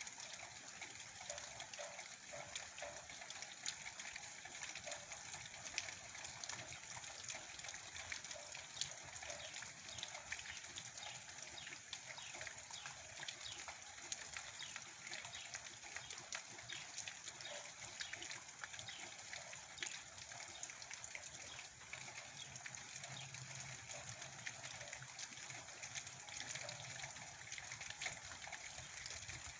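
Steady rain falling: an even hiss dotted with many small, sharp drop hits.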